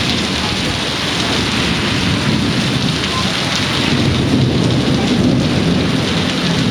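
Heavy rain pouring down during a thunderstorm, a dense steady hiss, with a low rumble swelling about halfway through.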